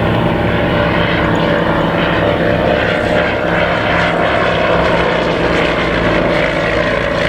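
Comper Swift light monoplane flying, its 75 hp Pobjoy R seven-cylinder radial engine and propeller running steadily at a constant level.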